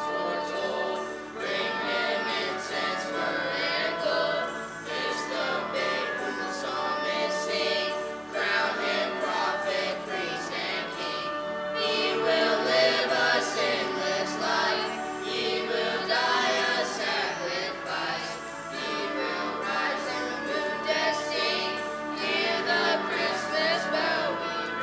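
A choir singing a Christmas song over musical accompaniment.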